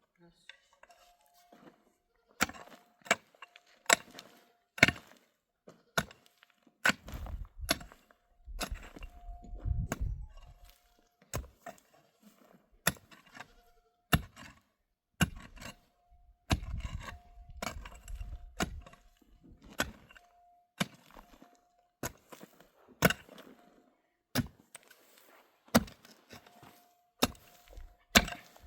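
Sharp knocks and cracks, roughly one a second, with a few longer low rumbling stretches in between.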